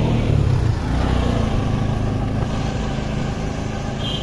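A motor vehicle engine running close by amid street noise, a steady low rumble with no break.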